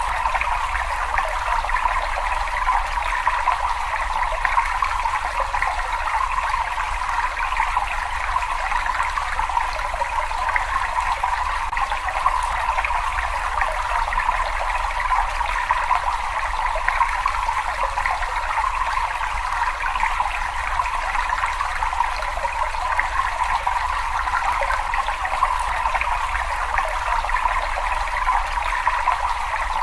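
Water running steadily in a cave: a continuous, even rush of flowing water that never changes or breaks.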